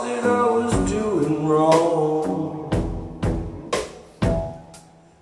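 Live rock band playing: a drum kit beat with sharp kick and snare strikes over sustained guitar chords, the band dropping much quieter near the end.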